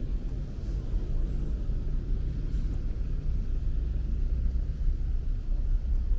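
Low, steady rumble of road vehicles, with an engine hum in the first half.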